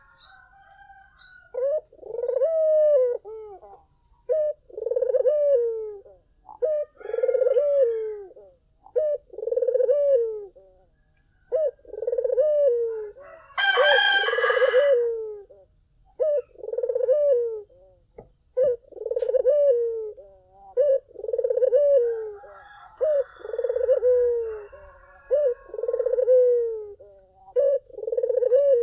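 Puter (domestic ringneck dove) cooing over and over, a low coo about every two seconds, each one falling in pitch at the end. About halfway through, a rooster crows briefly over the cooing.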